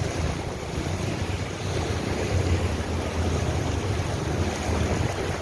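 Floodwater rushing along a street: a steady, even rush of water, with wind rumbling on the microphone.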